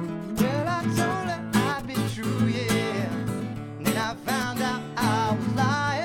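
Acoustic guitar playing an instrumental break in a folk-blues song: strummed chords under a melody of bending notes.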